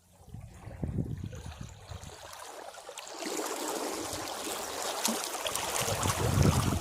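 Sea waves hitting rocks: low sloshing surges at first, then about three seconds in a wave washes over with a building hiss of foaming water.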